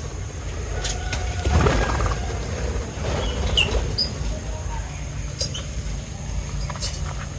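Small pet birds giving a few short, high chirps over a steady low rumble, with several sharp clicks and a brief louder rustle about one and a half seconds in.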